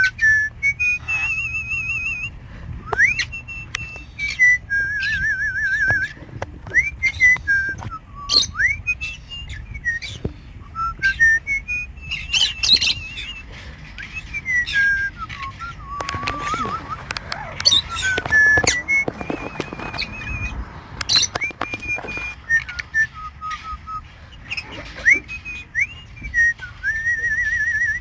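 Pet parrots whistling and chattering: rising and falling whistled notes, warbling trills and short sharp squeaks, several birds calling over one another.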